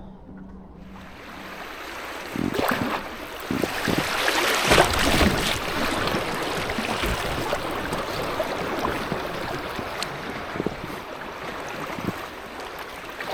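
Rushing river water, with short splashes on the water. The rush swells a few seconds in, then settles to a steady flow.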